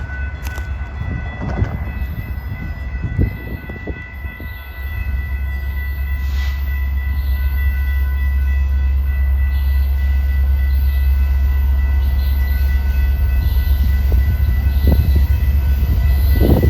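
BNSF freight train of tank cars rolling through a grade crossing. A heavy low rumble grows louder from about five seconds in, with steady high-pitched tones over it and a few short knocks.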